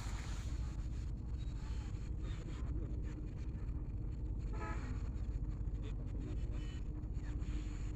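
A short vehicle horn toot a little past the middle, over a steady low rumble.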